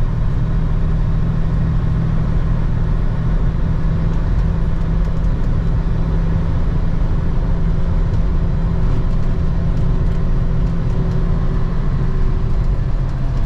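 Semi truck's diesel engine running at a steady cruise with road and tyre noise, heard from inside the cab while pulling a loaded dry bulk tanker. A low, even engine hum holds without any rise or fall in pitch.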